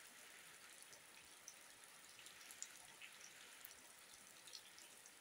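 Faint, steady rain: a soft hiss with many scattered drops ticking on the ground and nearby surfaces.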